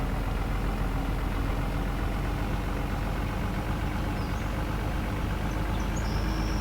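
Truck engine running steadily, a low even drone that stays at the same pitch.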